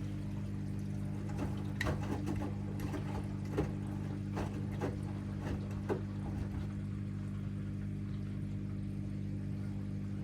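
AEG LR8FL160EX front-loading washing machine running a wash cycle with a load of bath mats: a steady motor hum from the turning drum, with a run of irregular soft knocks and clicks in the first six seconds or so as the load and water tumble.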